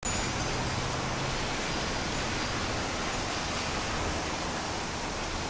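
Steady, even rushing of storm wind and rain left over from a typhoon.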